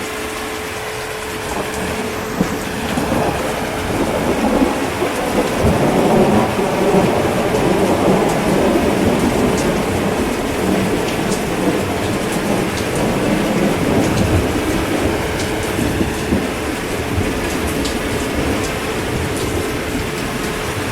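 Steady rain with a long, rolling rumble of thunder that builds about three seconds in, is loudest around six seconds, and fades over the next several seconds.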